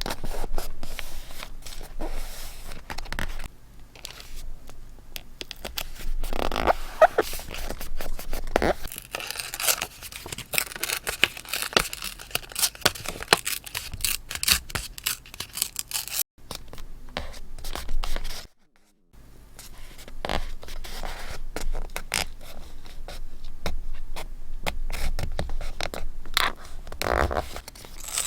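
Close-up paper and craft-material handling for journaling: scraping and rustling with many crisp ticks and clicks, broken by a brief silence about two-thirds of the way through.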